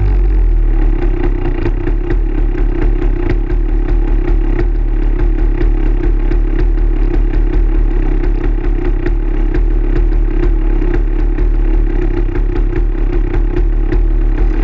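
Dirt bike engine running steadily at a low, even speed, with many short clattering ticks over the drone.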